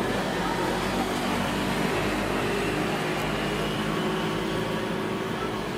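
A motor engine running steadily over a bed of street traffic noise, a low even hum throughout.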